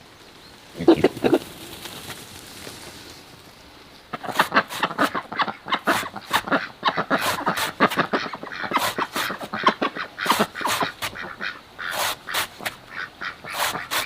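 A flock of ducks quacking: a few loud calls about a second in, then from about four seconds in a dense, continuous chatter of many overlapping quacks.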